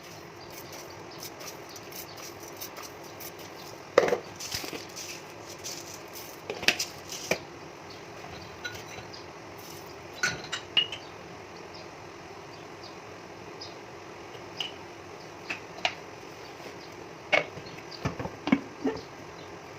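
Kitchen utensils and dishes knocking and clinking now and then during food preparation over a steady background hum, with a sharp knock about four seconds in and a cluster of clinks near the end.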